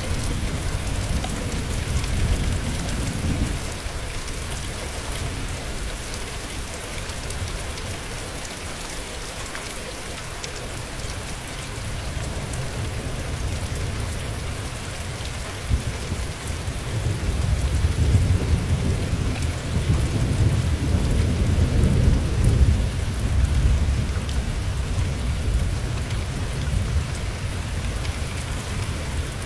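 Steady rain falling, with rolling thunder rumbling low at the start and again for several seconds after the middle.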